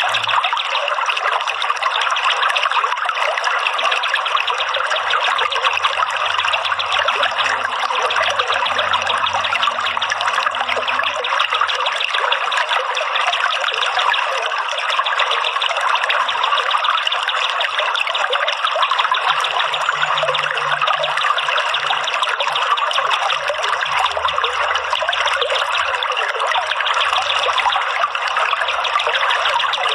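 Running water trickling steadily, a continuous even splashing with no pauses.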